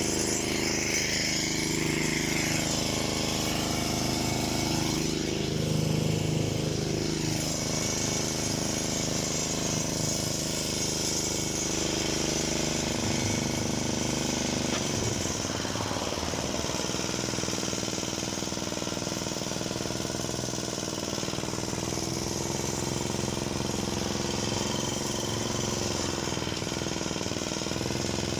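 Lada Samara 2114 car engine running steadily, with a slightly rattly tone.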